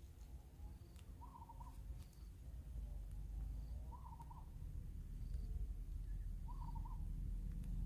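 A bird calling three times, a short wavering call repeated about every two and a half seconds, over a steady low rumble.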